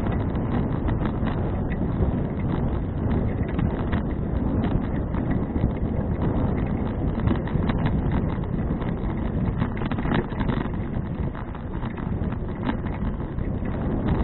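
Wind rushing over the microphone of a bicycle-mounted action camera while riding, with frequent small irregular clicks and knocks from the bike rattling over the path.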